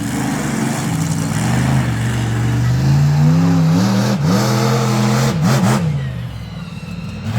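Monster truck engine revving: its pitch climbs steadily for a couple of seconds, then a few quick throttle blips about four to five seconds in, before it eases off.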